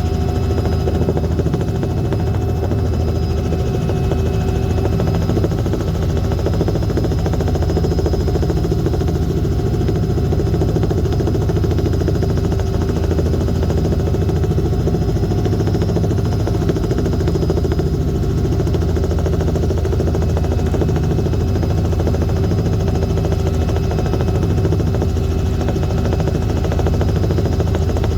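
Steady, unchanging drone of an aircraft's engine in flight, a low hum with a few constant tones above it.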